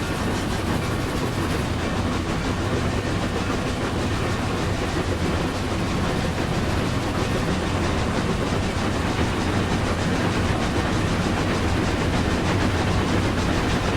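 Model steam trains running on their track: a steady, even rattle of wheels on rails.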